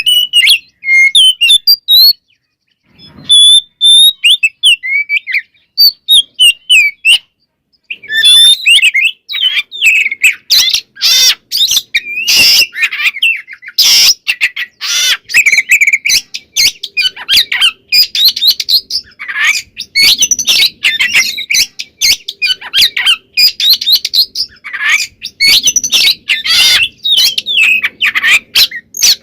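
Oriental magpie-robin (kacer) singing. It starts with a few separate whistled phrases with pauses between them, then from about eight seconds in breaks into a fast, continuous run of varied high notes.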